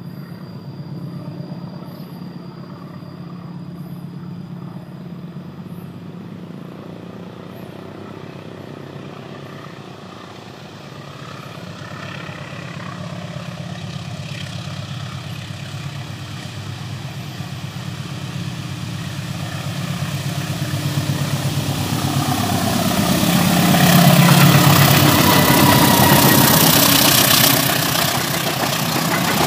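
A diesel-electric locomotive hauling a passenger train approaches and passes close by. Its steady engine drone grows louder over the second half, and the rumble of the wheels on the rails is loudest near the end.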